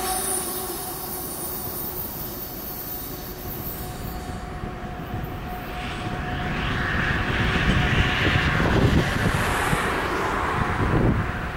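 Rumble of a coal train that has just passed, fading away as its wheel whine dies out. Then a rushing noise swells up about six seconds in and dies down near the end.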